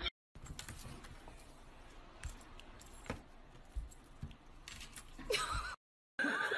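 Scattered clicks and knocks with a faint rustle as a ginger cat scrabbles at a wicker basket on a tabletop, stopping abruptly near the end.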